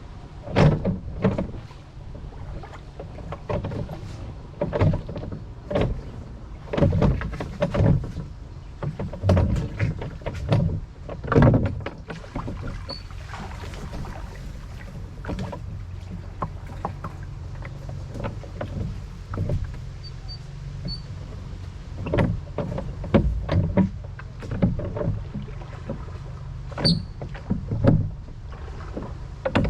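Rowboat being rowed: oars splashing and knocking in uneven clusters of strokes, with a lull in the middle. A steady low rumble of wind on the microphone runs underneath, and a few brief bird chirps come through.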